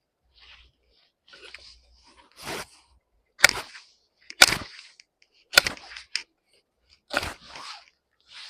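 A series of sharp knocks, four loud ones roughly a second apart, each followed by a short crunching scrape, with fainter rustling between them.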